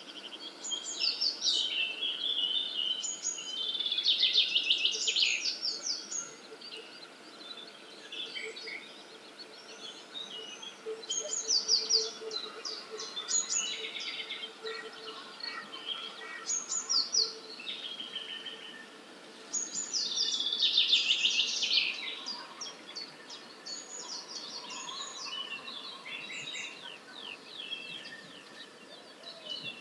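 Early-morning chorus of several wild songbirds singing at once: overlapping high chirps, whistles and fast trills, with louder bouts of rapid notes about four seconds in and again around twenty seconds in.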